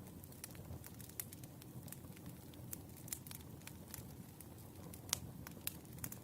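Wood fire burning, with a low steady rumble and irregular sharp crackles and pops from the burning logs; the loudest pop comes about five seconds in.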